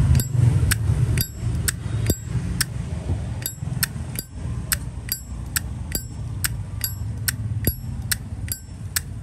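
Zippo lighter's hinged lid being flicked open and snapped shut over and over: a crisp metallic click with a brief high ring, about two a second.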